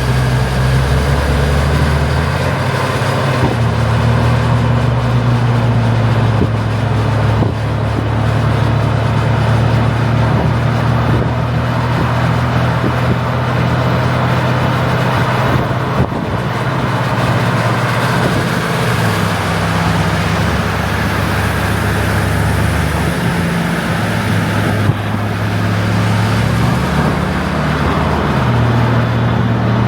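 Mercedes-Benz W123 wagon's five-cylinder turbo diesel heard from inside the cabin while driving: a steady low engine drone over road noise, the engine note stepping up and down in pitch a few times as the speed changes.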